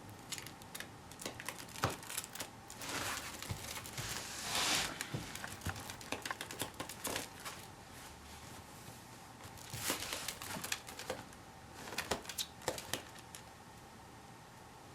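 Soft rustling and crinkling with scattered small clicks and taps, in several short bursts.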